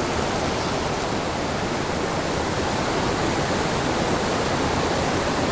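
Steady rush of falling whitewater from a small mountain stream and waterfall.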